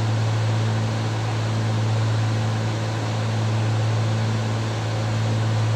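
Steady drone of a Cessna 310's twin piston engines and propellers in flight: a constant low hum under an even hiss of cabin noise.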